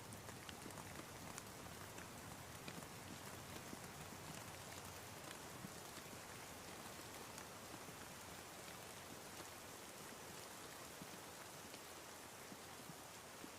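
Soft, steady rain falling, with many small raindrop ticks scattered through it.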